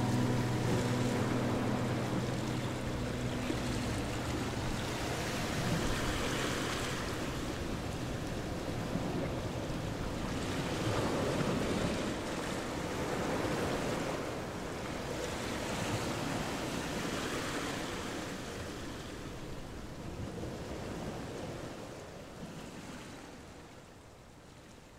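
A soft, even rushing noise, like surf, that swells and ebbs every few seconds and fades away near the end. The last notes of guitar music die out in the first few seconds.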